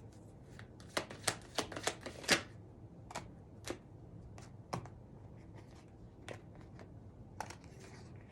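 Rider-Waite tarot cards being shuffled by hand, a quick run of sharp card snaps about a second in, then scattered single clicks as cards are handled.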